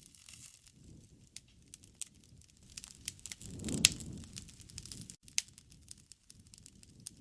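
Wood fire crackling, with sharp pops scattered throughout over a low burning sound. About halfway through, the fire swells for about a second and gives one loud pop.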